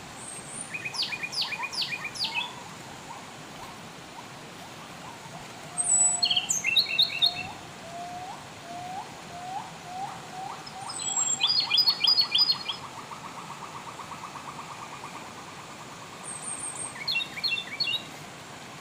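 Wild songbirds singing: four short bursts of quick, high chirping phrases a few seconds apart. In between, a lower call repeats and speeds up into a rapid trill, over a steady background hiss.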